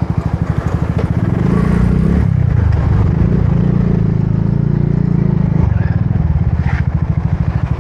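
Small motorbike engine running as it is ridden, with a rapid, even pulsing that gets louder about a second in.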